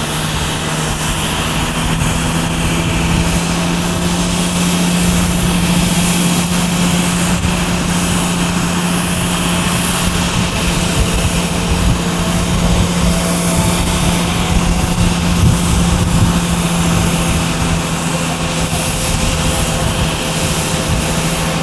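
Airbus A330-300 jet airliner's General Electric CF6-80E1 turbofans running at takeoff thrust, a loud, steady jet noise with a constant low hum under it.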